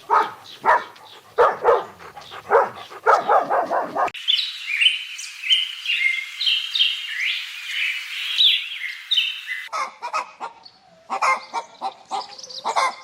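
Animal sounds in sequence: short calls repeated every fraction of a second, then small birds chirping and twittering for about six seconds, then short repeated calls again.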